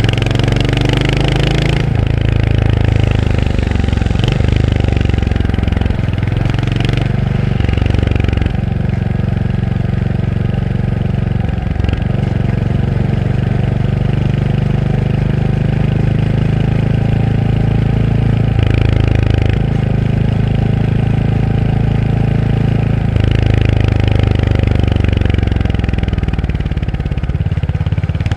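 Royal Enfield Hunter 350's single-cylinder engine under way: the note climbs and drops back several times as the rider works through the gears, then holds steady for long stretches of cruising, easing off near the end.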